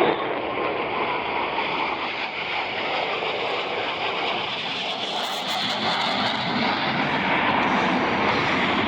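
Jet engine noise from Blue Angels Boeing F/A-18 Super Hornets in flight: a steady rushing noise that grows a little louder over the last few seconds.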